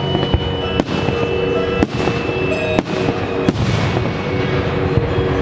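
Fireworks display bursting in a string of sharp bangs, about one a second, over a continuous hiss and rumble, with pyromusical music playing alongside.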